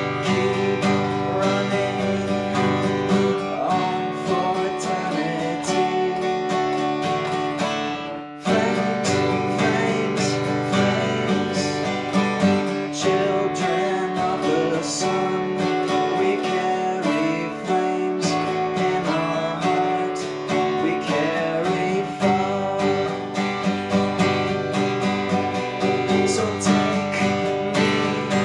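Guitar played alone in an instrumental passage between verses of a song, strummed and picked, with a short break in the playing about eight seconds in.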